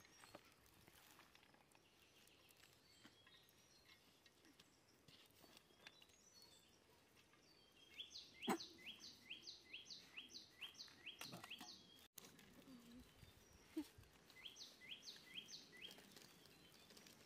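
A bird calling a run of repeated sharp, high notes, about three a second, for several seconds from about eight seconds in, and again briefly for four notes near the end, over faint outdoor quiet. A single light knock sounds about halfway through, louder than the calls.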